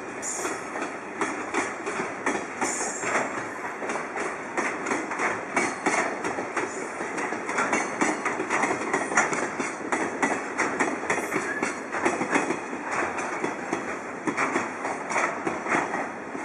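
Container freight train rolling past, its wheels clattering over rail joints in rapid, irregular clicks over a steady rumble.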